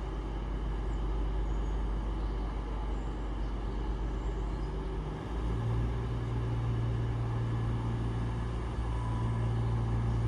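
Train at the station platform giving a steady low mechanical hum. About five and a half seconds in, a deep tone in the hum steps up and grows louder, as when a train's power is applied.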